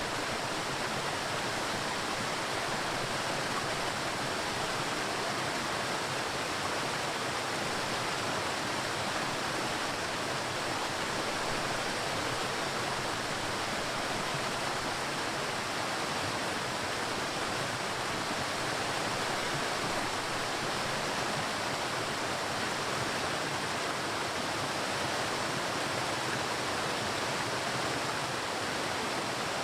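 Waterfall: water falling and rushing in a steady, unbroken roar that never changes in level.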